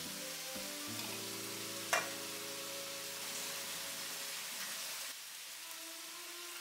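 Diced dried tofu sizzling and frying in a hot oiled wok as it is stir-fried, with one sharp tap about two seconds in. The sizzle eases a little near the end.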